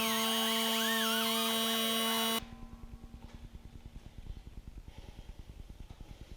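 Pneumatic air die grinder with a wire brush whining at a steady high pitch as it scuffs paint off cast iron, then cutting off abruptly about two and a half seconds in. A much quieter fast, even pulsing follows.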